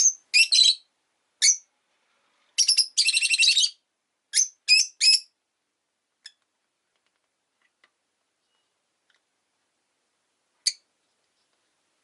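Rosy-faced lovebird giving sharp, high-pitched chirps: a quick string of calls over the first five seconds, including a rapid chattering run about three seconds in, then a single chirp near the end.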